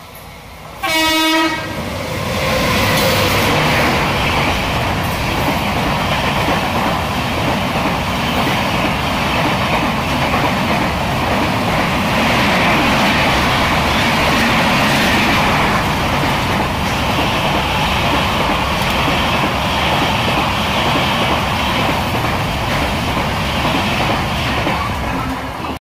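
A WAP-7 electric locomotive gives one short horn blast about a second in. Its train of LHB coaches then passes close by with a steady rushing rumble and wheel clatter on the rails, which cuts off near the end.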